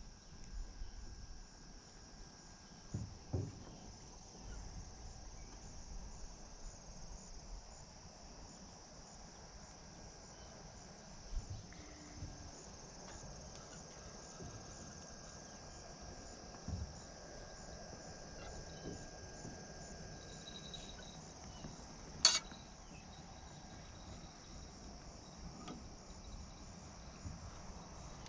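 Steady, high-pitched chorus of insects chirring, with a few soft knocks and one sharp click about twenty-two seconds in.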